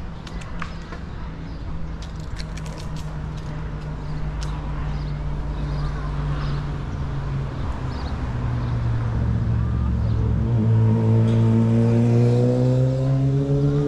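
A motor vehicle's engine running steadily and growing louder, then rising in pitch over the last few seconds as it accelerates.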